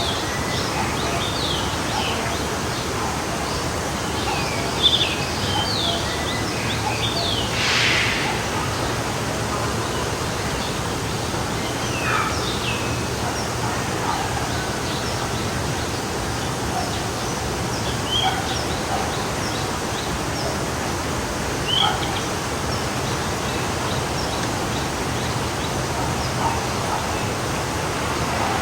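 Steady rushing of a forest stream with birds calling over it in many short, sliding chirps. About eight seconds in there is a brief louder hiss.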